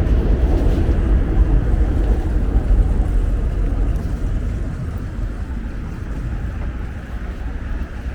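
A motor vehicle passing on a street, its low rumble loud at first and fading away over the second half.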